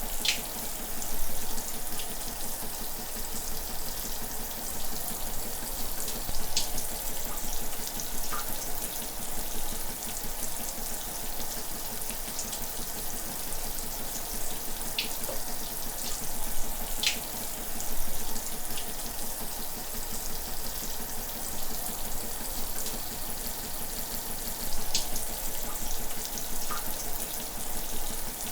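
Shower running: a steady hiss of falling water with a few brief splashes now and then.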